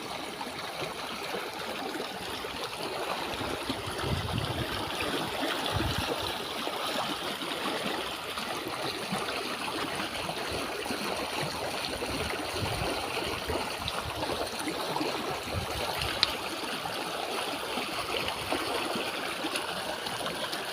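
Flash-flood water rushing steadily along a swollen stream. A few low thuds come through, and one sharp click about sixteen seconds in.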